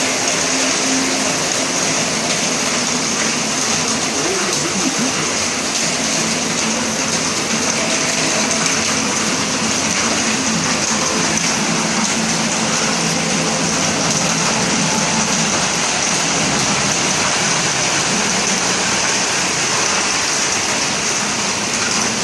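Heavy rain pouring down, a loud, steady, even hiss, with a faint low hum underneath.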